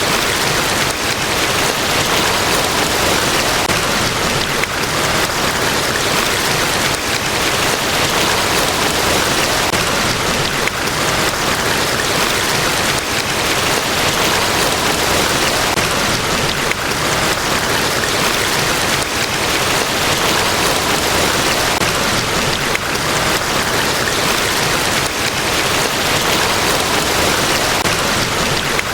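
Large waterfall: a loud, steady rush of falling water, even and unbroken.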